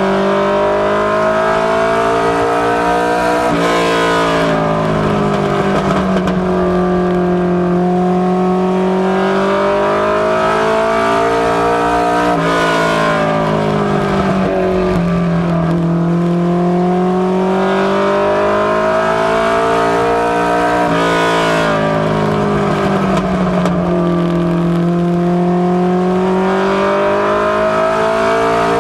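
Mustang LX mini stock race car's four-cylinder engine under racing load, its pitch climbing slowly as it pulls down each straight, then dropping suddenly as the driver lifts for the turn, about three times over, with a steady rush of tyre and road noise.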